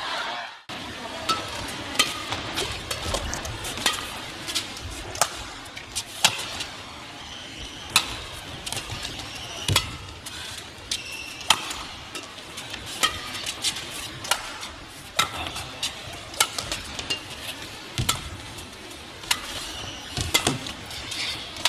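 Badminton rackets striking a shuttlecock back and forth in a long rally: sharp hits come about once a second, over a steady arena background.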